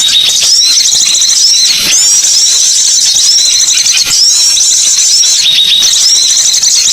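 Many small birds chirping at once: a dense, loud chatter of short, high-pitched notes that overlap and repeat without a break.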